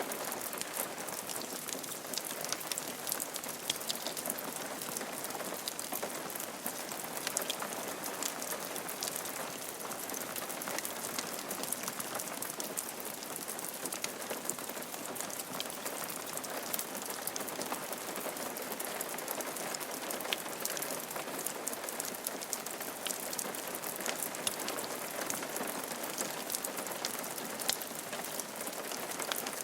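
Steady rain falling on a roof, a continuous hiss dotted with many small, sharp drop strikes.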